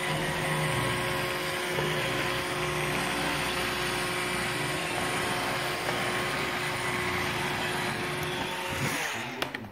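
iRobot Roomba 650 robot vacuum running: a steady motor whine over brush and suction noise. It dies away near the end, with a couple of sharp clicks.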